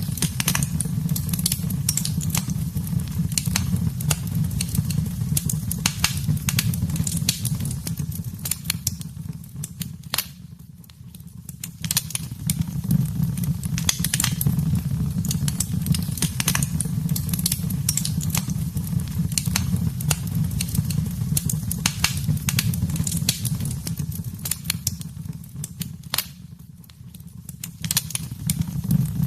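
Wood fire crackling and popping in a fireplace: a dense run of sharp snaps over a steady low rumble of the flames. The crackling thins out and the level drops briefly twice, about ten seconds in and again near the end.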